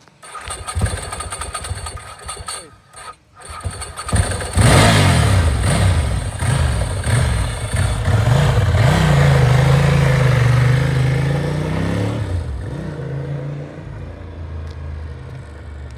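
Ducati 888's desmo V-twin being started: cranking in broken bursts for the first few seconds, then catching about four and a half seconds in. It is blipped up and down, held at raised revs for a couple of seconds, then drops back to a lower, steadier run near the end.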